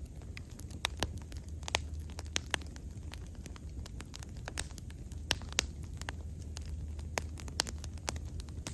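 Wood bonfire crackling, with frequent sharp irregular snaps and pops over a steady low rumble of the flames.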